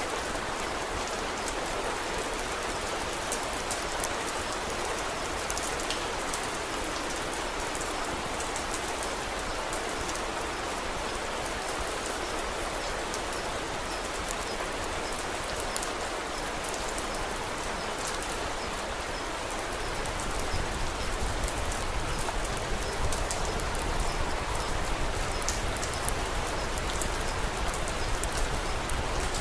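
Steady rain with small, scattered crackles from a wood fire. About two-thirds of the way through, a low rumble joins in and the sound grows slightly louder.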